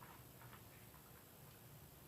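Near silence: room tone with a couple of faint ticks.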